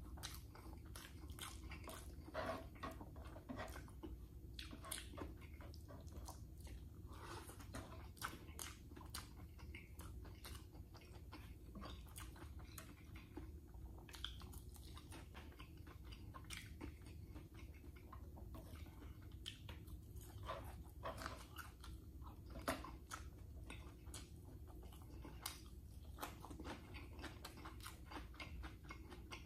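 Close-up chewing of a person eating rice, corned beef and fried tuyo (salted dried fish): a run of small wet mouth clicks and crunches, irregular and continuous, over a low steady hum.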